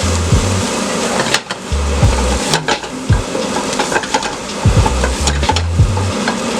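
Stirring and mixing in a bowl, with scattered utensil clicks and knocks over a steady hiss. Background music with a pulsing bass line runs underneath.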